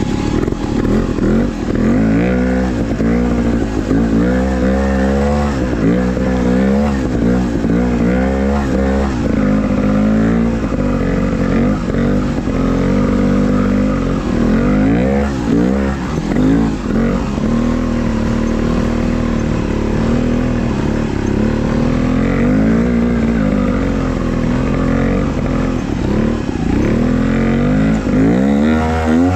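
Trials motorbike engine revving up and down over and over as the throttle is blipped and eased off, with a steadier stretch midway.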